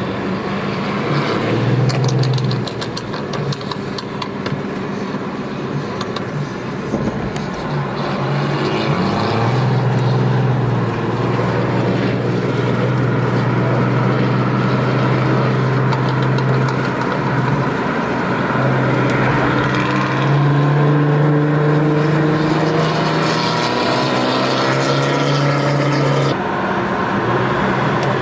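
Car engines running, their low note holding steady for a few seconds at a time and then stepping up or down.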